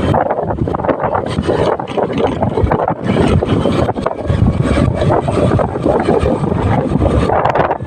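Heavy wind buffeting on the microphone of a moving motorcycle, mixed with road and engine noise.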